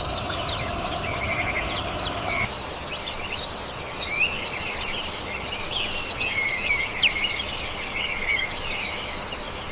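A dense chorus of many small birds chirping and trilling rapidly over a steady background hiss. About two and a half seconds in, the background changes abruptly as a lower rushing noise drops away, while the chirping carries on.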